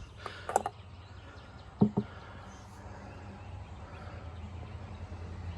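A few light knocks and clicks from handling the old and new oil filters, two of them close together about two seconds in, over a steady low hum.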